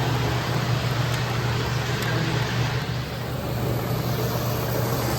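Model train running on the layout: a steady low hum and rumble that dips slightly about three seconds in.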